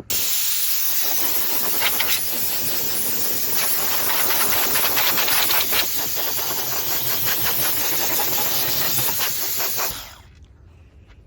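A loud, steady hiss of rushing air or spray with a crackle running through it, starting abruptly and cutting off about ten seconds in.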